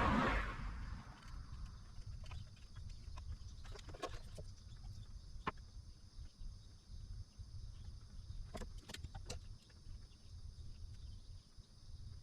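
A short burst of noise right at the start, then a low steady hum with a few faint clicks and taps scattered through, about four seconds in, at five and a half seconds, and a quick cluster near nine seconds.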